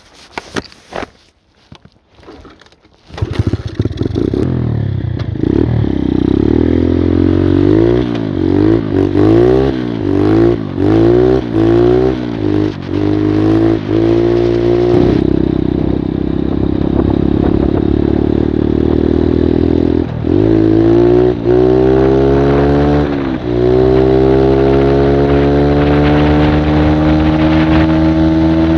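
85cc Skyteam Monkey mini-bike engine starting about three seconds in after a few faint clicks, then revved up and down in quick repeated blips. It settles to steadier running, drops briefly twice, and then climbs steadily in pitch as the bike accelerates.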